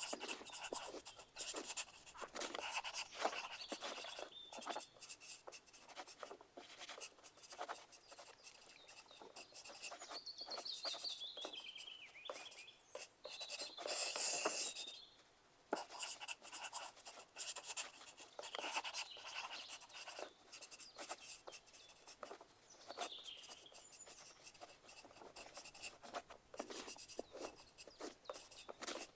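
Pencils scratching on paper in quick, irregular strokes, the continuous sound of writing on exam sheets.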